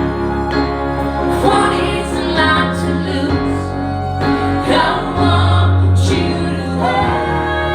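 Live music: a singing voice over sustained instrumental chords and a steady bass line.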